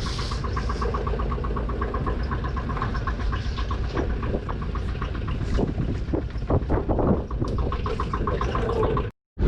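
Small fishing boat's engine running steadily, with a fast, even ticking over its drone. The sound cuts out briefly near the end.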